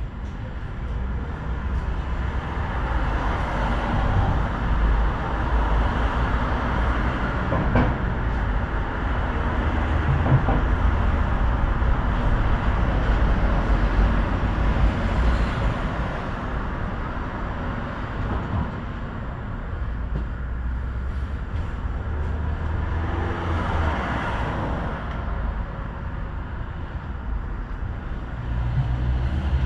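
Tram running along its track: a steady low rumble of wheels on rails with running noise that swells and eases as it travels, and a few faint clicks along the way.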